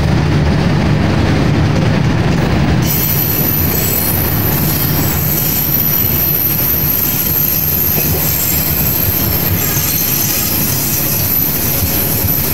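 Passenger train coaches rolling past with a steady low rumble of wheels on rail. About three seconds in, a high-pitched squeal of steel wheels sets in and holds.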